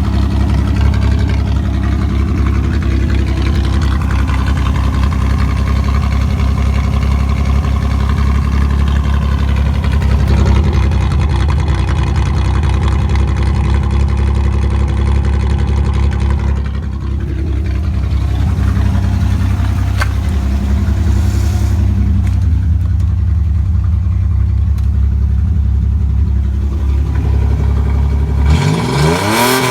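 1986 Camaro's 2.8 V6 idling through straight-piped exhaust with no mufflers, a steady loud idle that dips briefly partway through. Near the end the throttle is blipped and the revs rise and fall.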